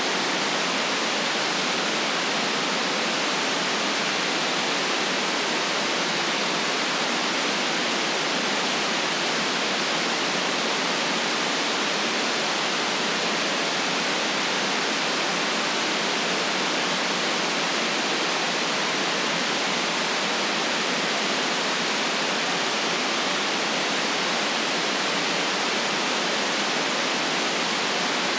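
Steady, unchanging white noise: an even hiss with no breaks, its deepest bass and highest treble cut off.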